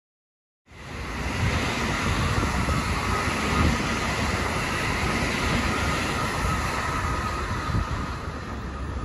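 Electric multiple-unit passenger train passing on the tracks below: a steady rush of wheel and rail noise with a faint motor whine, starting abruptly under a second in.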